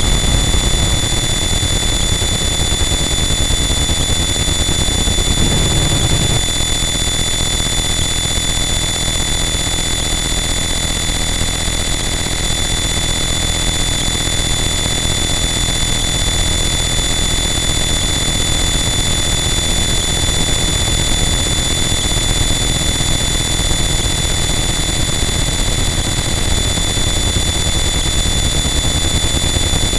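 Harsh noise wall: a loud, unchanging wall of dense distorted static over a heavy low rumble, with steady high whining tones running through it.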